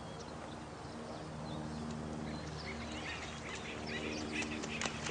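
Looped nature-sound ambience: a steady hiss of running water under a low, even hum, with small birds chirping and calling, busier in the second half.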